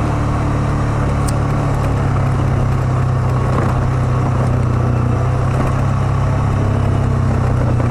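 ATV engine running steadily at an even speed while riding along a trail.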